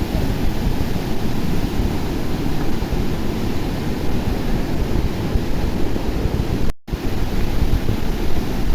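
River in flood rushing past in a steady, loud roar of water, with wind buffeting the microphone. The sound cuts out for a split second about seven seconds in.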